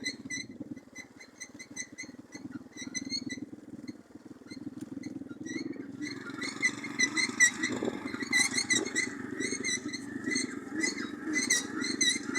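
Small moped engine running under way, with a fast pulsing note that grows louder about halfway through. Over it come repeated short, high-pitched chirping squeaks.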